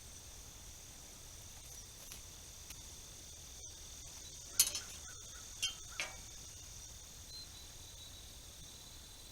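Insects chirring steadily in the background, with three sharp clinks of hand tools on metal from the hay rake repair in the middle: the loudest about four and a half seconds in, then two more about a second later.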